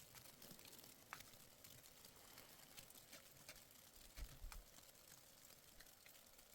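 Near silence, with faint scattered clicks and a soft low thump about four seconds in.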